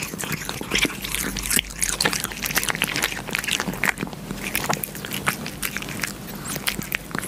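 Kitten licking yogurt off a clear pane: a quick, irregular run of wet tongue clicks and smacks, several a second.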